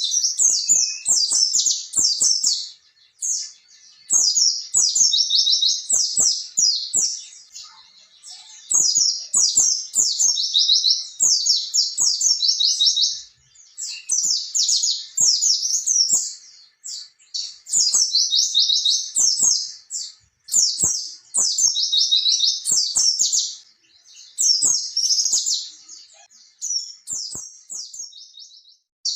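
White-eye (pleci) singing its long, fast, high twittering song in runs of a few seconds broken by short pauses.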